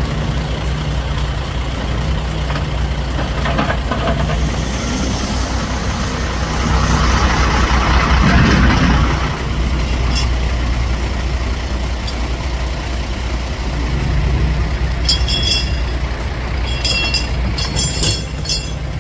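Diesel logging truck running steadily under load, with a louder rush of noise about seven to nine seconds in. Near the end come several short, high-pitched chirps.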